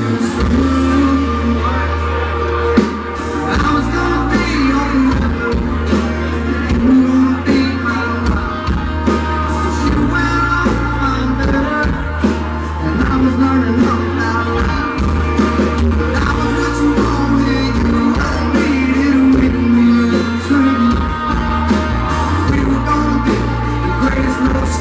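Live country band playing a song on drums, bass guitar, electric guitar and keyboards, with a male voice singing over it.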